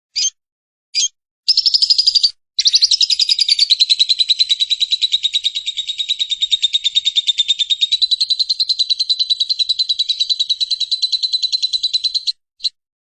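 Lovebird's long 'ngekek' chatter: two single chirps, then a rapid, even run of repeated high notes lasting about ten seconds, broken briefly near the start. It ends abruptly and is followed by one more chirp.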